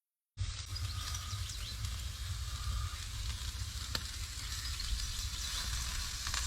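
Marinated chicken tikka pieces sizzling steadily as they cook, with a low rumble underneath. The sound cuts in suddenly about a third of a second in, and a single sharp click comes about four seconds in.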